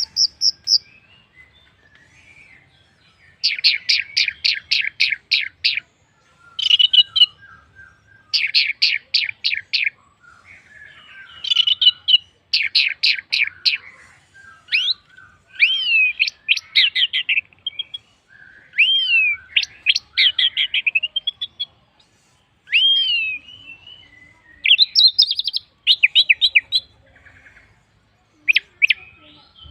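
Orange-headed thrush (Anis merah) singing a varied song. It gives phrases of rapidly repeated notes alternating with slurred, rising and falling whistles, separated by short pauses.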